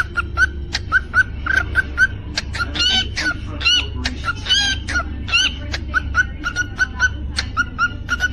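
Cockatiel chirping in a quick series of short, repeated calls, about two or three a second, broken twice by higher warbling notes about three and four and a half seconds in. A steady low hum runs underneath.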